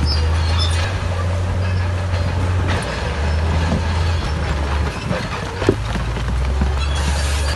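Heavy diesel engine of earthmoving machinery running under load, a low drone that shifts pitch a few times, with scattered knocks and clanks, one sharper knock a little after halfway.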